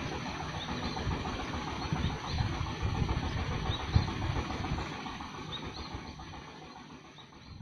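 Outdoor rumble and hiss, uneven and gusty like wind on the microphone, with faint short high bird chirps repeating every second or so; it all fades down near the end.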